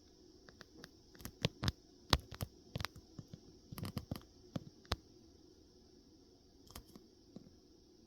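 A quick, irregular series of sharp clicks and knocks, about twenty in the first five seconds, then two or three more near the end.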